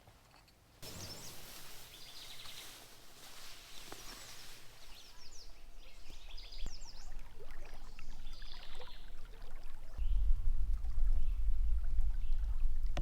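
Stream water running, with small birds chirping over it in short repeated calls. About ten seconds in, a low rumble comes in and is the loudest sound to the end.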